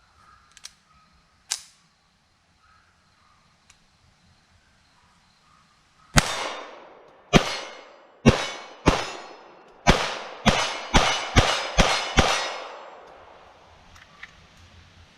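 Ruger Mark III 22/45 pistol firing .22 LR rounds: ten shots over about six seconds, coming faster toward the end, each with an echoing tail. A few faint clicks and one sharp crack come before the string of shots.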